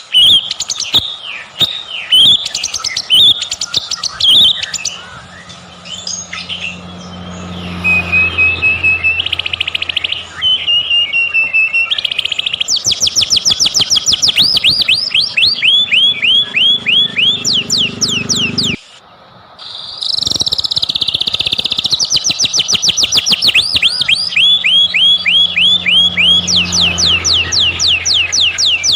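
White-rumped shama (murai batu) singing in long runs of fast, repeated rising whistles, with a brief pause about two-thirds of the way through.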